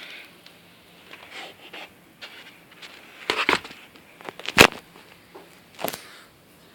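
Handling noises: a string of scrapes, rustles and clicks, with one sharp knock about four and a half seconds in as the loudest sound.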